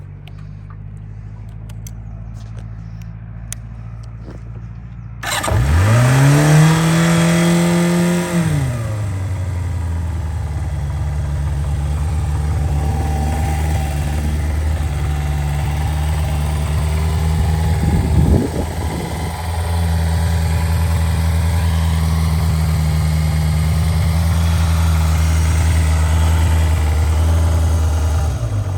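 Kawasaki Zephyr 550 air-cooled inline-four engine cold starting: after a low steady hum it catches about five seconds in, revs up and holds high for a few seconds, then drops to a steady idle. About eighteen seconds in there is one brief blip of the throttle before it idles on.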